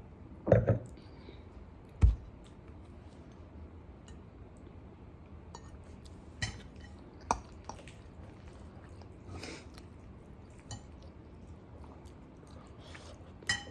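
A person eating at the table: a few short, sharp clinks of tableware, loudest near the start, with quiet chewing between them.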